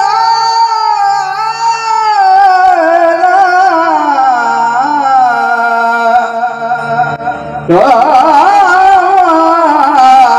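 Male voice singing a Marathi devotional bhajan in long held notes, ornamented with quick wavering turns and slow downward slides, over a steady drone. About three-quarters of the way through, a voice comes in with a sharp rising swoop and carries the melody on.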